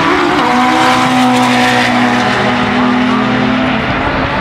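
Turbocharged Honda Civic four-cylinder engine at full throttle on a quarter-mile drag pass, holding a steady high pitch as it pulls hard through a gear.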